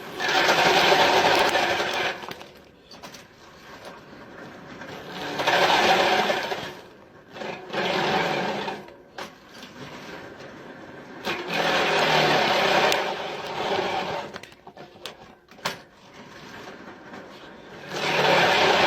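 A small motor-driven machine running in bursts of one to three seconds, starting and stopping four or five times.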